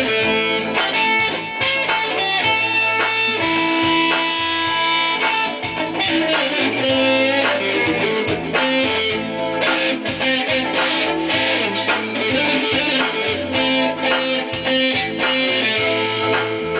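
Guitar music: plucked guitar notes following each other quickly, over low bass notes.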